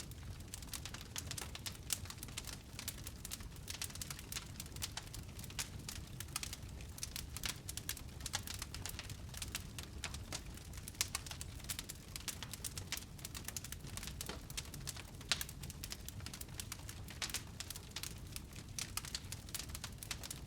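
Wood fire burning in a fireplace, crackling continuously with dense, irregular small snaps over a low rumble of flame. A few louder pops stand out, about eleven and fifteen seconds in.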